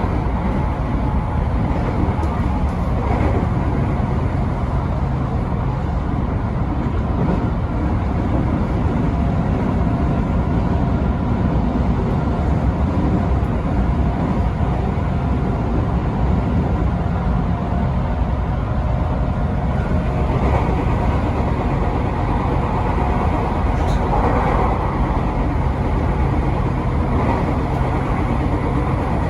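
Electric passenger train running along the line, heard from inside the front car: a steady rumble of wheels on rail with a faint steady motor whine.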